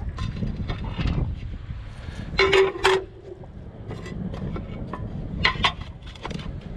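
Scrap metal being handled: a series of knocks and clanks, loudest a pair of clangs about two and a half seconds in, one leaving a brief ringing tone, over a low rumble.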